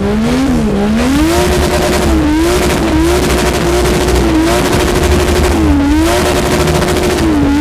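Toyota JZ straight-six in a ZAZ Zaporozhets drift car, revving hard through a drift. The revs are held at the same high ceiling, with about five quick drops and climbs back.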